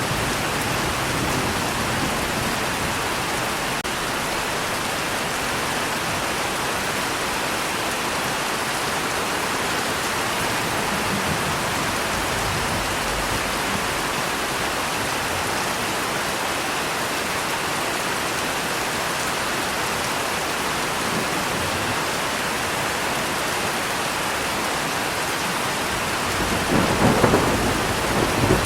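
Steady rain falling, with a rumble of thunder that swells near the end.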